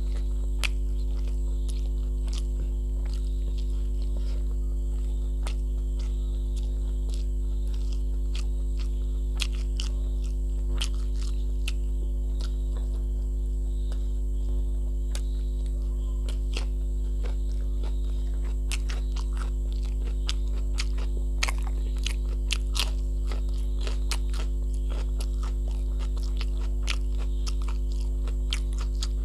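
Close-miked eating: chewing and lip-smacking of a mouthful of rice and curry eaten by hand, with many small wet mouth clicks, busier in the second half. Under it all runs a loud, steady electrical mains hum.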